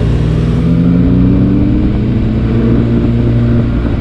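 Benelli TRK 502 X's parallel-twin engine pulling under load on a climb, its pitch rising steadily as it accelerates.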